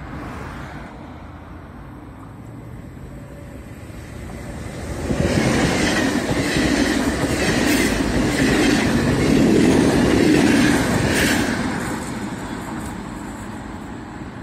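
Passenger train passing close by at speed. Its rumble builds about five seconds in, the wheels click over the rail joints several times, and the sound fades away as it recedes.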